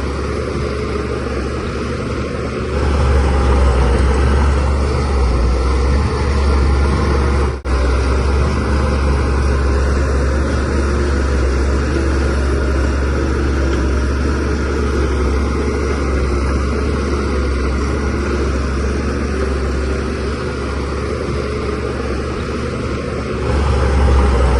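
DH17C3PRO bulldozer's diesel engine running steadily, with a heavy low rumble, growing louder about three seconds in and again near the end. There is a momentary break in the sound a little past seven seconds.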